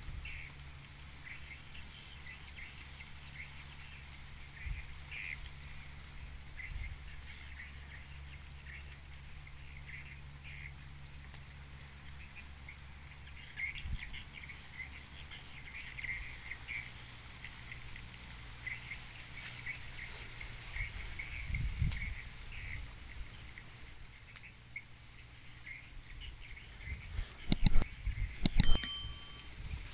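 Faint, scattered bird chirps over a steady low wind rumble on the microphone. A few loud clicks come near the end.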